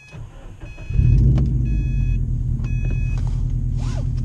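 Cold start of a 2013 Subaru WRX's turbocharged 2.5-litre flat-four: the starter cranks it briefly, it catches about a second in, and it settles into a loud, steady idle through a straight-pipe exhaust, heard from inside the cabin. A dashboard warning chime repeats over the first few seconds.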